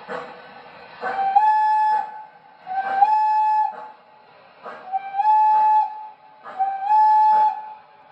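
O scale model steam locomotive's onboard sound system blowing a recorded steam whistle: four blasts of about a second each, every blast sliding up slightly in pitch as it opens. Slow, even chuffing continues between the blasts.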